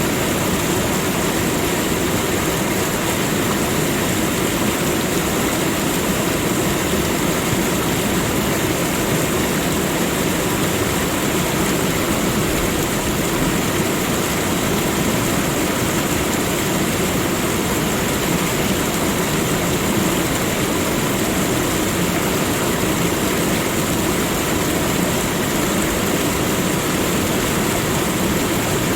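Waterfall: falling water rushing in a steady, loud roar.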